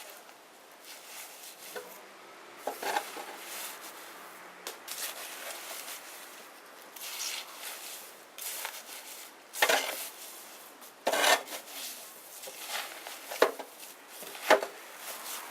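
Small wood bonfire crackling: a low hiss with irregular sharp pops from the burning wood, several loud ones in the second half.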